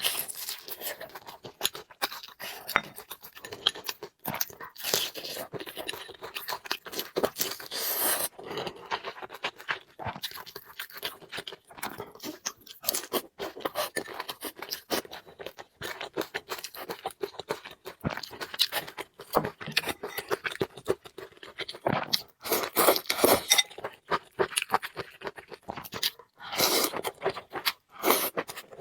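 A person eating close to the microphone: steady chewing and crunching with small clicks and scrapes, and a few louder, longer noisy stretches, around a third of the way in and twice near the end.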